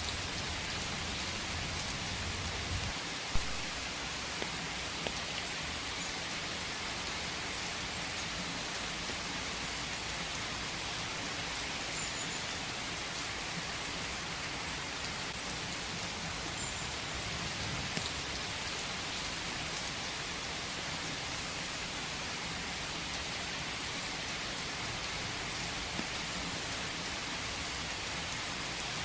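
Steady rain falling, an even hiss with occasional louder drops striking close by, the loudest about three seconds in.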